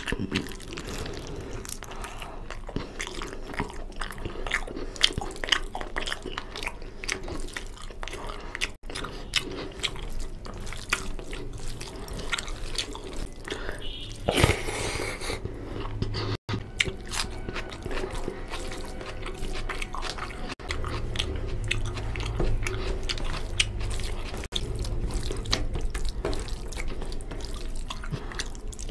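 Close-miked eating: a person biting and chewing curried mutton off the leg bone and mouthfuls of rice with curry, with many small wet mouth clicks. A low rumble joins in during the second half.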